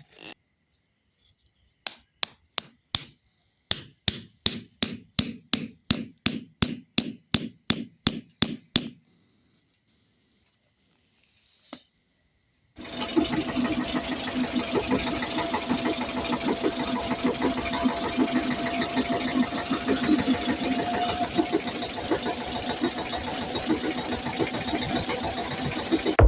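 A run of sharp hammer-like knocks, about three a second for several seconds, then a pause. About halfway through, a small motor starts and runs steadily to the end.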